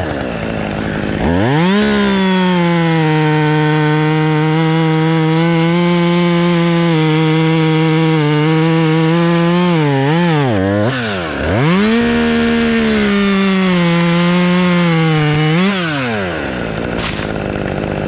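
Two-stroke chainsaw revved from idle to full throttle and cutting through a tree trunk in a straight drop cut, its pitch sagging slightly under load. About ten seconds in the throttle eases off briefly and comes back, and near the end the saw drops back to idle.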